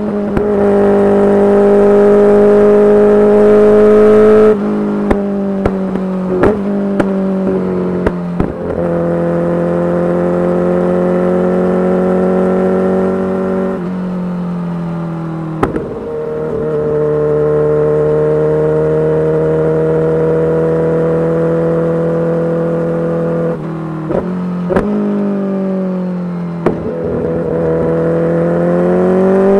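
Kawasaki Ninja H2's supercharged inline-four running through a titanium full exhaust under way. The engine note holds or creeps up in pitch for several seconds at a time, then drops abruptly several times and climbs again near the end, with scattered sharp pops.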